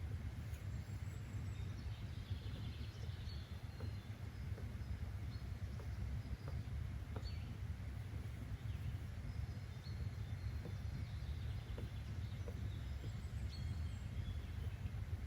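Nature-sound ambience: a steady low rumbling noise bed with faint, scattered bird chirps above it.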